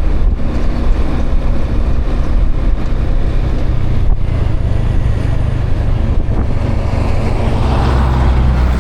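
Motorbike on the move: wind rushing over the microphone with the bike's engine and road noise underneath, a steady low rumble that grows a little stronger near the end.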